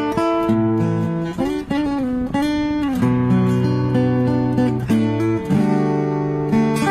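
Solo guitar playing a melody over sustained low bass notes, with bent, wavering notes between about one and a half and three seconds in.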